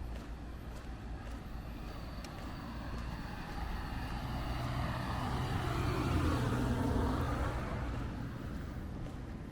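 A car passing along the street: its engine and tyre noise grow louder, peak about six to seven seconds in, then fade away.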